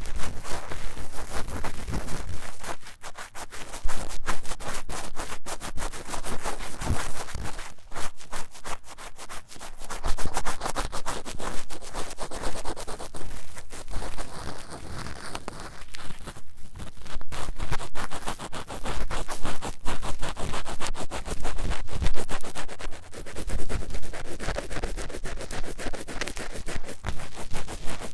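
Ear-cleaning tool scratching quickly and vigorously inside the silicone ear of a 3Dio binaural microphone, a dense run of rapid scraping strokes.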